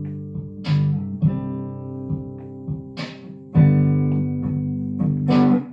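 Guitar playing alone between sung lines: a chord strummed about every two and a half seconds and left to ring, with lighter single picked notes in between.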